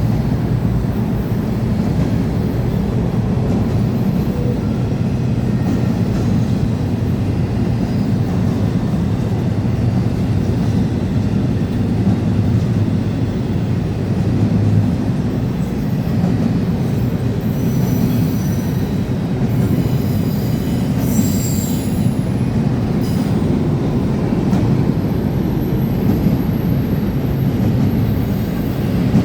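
Freight train cars rolling past with a steady, heavy rumble of wheels on rail. High-pitched wheel squeal comes and goes in the second half.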